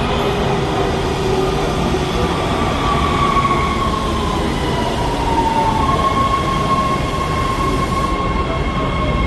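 Metro rail train running with a steady rumble, overlaid by a high whine that slides down gently partway through and then holds steady.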